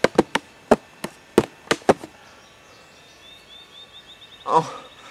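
A quick series of about nine sharp knocks over two seconds, like something hard struck against wood, followed by a faint run of high chirps.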